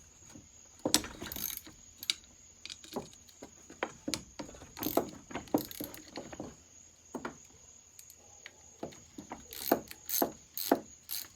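Socket ratchet clicking in short, irregular runs while loosening 7/16 bolts on a chainsaw's handle, with metal tool clinks.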